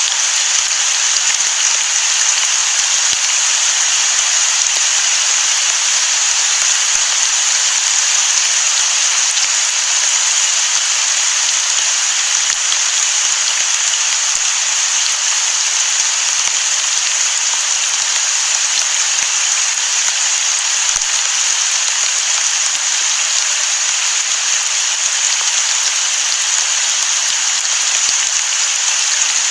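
Steady rain: an even, unbroken hiss, bright and high-pitched, with no thunder.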